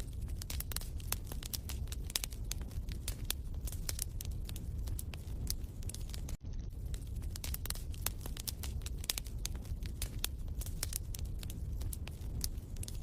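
Wood fire crackling in a fireplace: irregular sharp pops and snaps over a low steady rumble, with a very brief dropout about halfway through.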